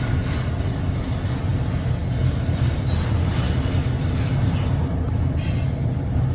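Diesel locomotive rumbling steadily, a deep low drone with a couple of faint clicks partway through.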